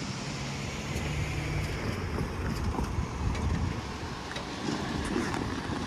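Freight train rolling past: a steady rumble of cars on the rails with a low engine drone and scattered faint clicks.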